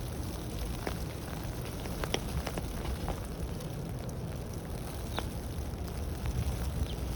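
Blizzard ambience: a steady low rumble of wind, with a few light, irregular ticks scattered through it.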